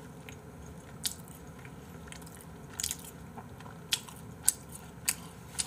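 A person chewing a mouthful of hamburger close to the microphone, with a handful of short wet mouth clicks scattered through it.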